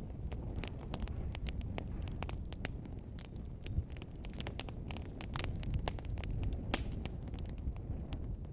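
Wood fire crackling in a fireplace: many quick, irregular pops and snaps over a steady low rush of the flames.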